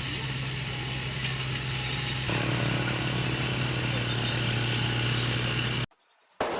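Diesel engine of a heavy earthmoving machine running steadily with a low hum; about two seconds in the sound steps up louder and fuller, and near the end it drops out abruptly for about half a second.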